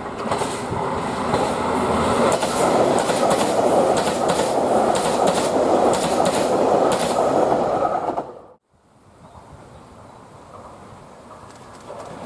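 2000 series diesel express train running on the rails, a loud steady rumble with repeated clicks of wheels over rail joints. It cuts off abruptly about eight and a half seconds in, and a much quieter steady background follows.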